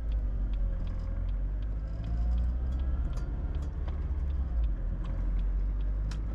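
Car driving on a road, heard from inside: a steady low rumble of engine and road noise, with faint light clicks throughout.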